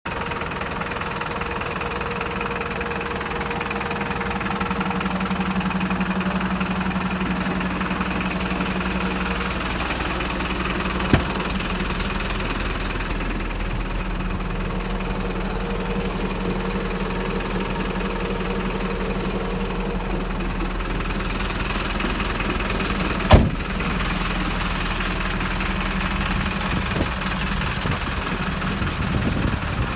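A machine running steadily with a continuous low hum, broken by a sharp click about 11 seconds in and a louder knock about 23 seconds in.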